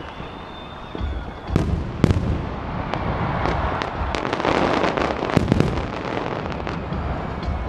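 Aerial fireworks going off: sharp bangs from shell bursts about a second and a half and two seconds in, then a stretch of dense crackling with another big bang after about five seconds. A thin whistle is heard near the start.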